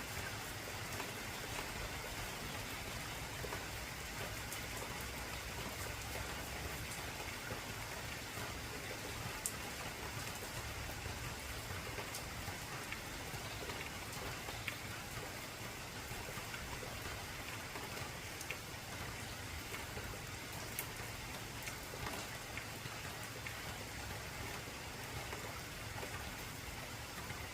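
Heavy rain falling steadily on an old corrugated zinc roof, with a constant hiss and scattered sharp drop ticks.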